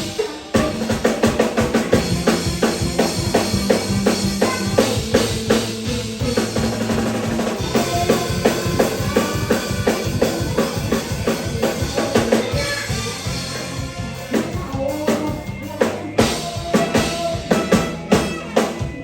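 Drum kit played in a busy, fast pattern of bass drum, snare and rimshot hits, with the rest of a mor lam band's instruments holding steady notes underneath.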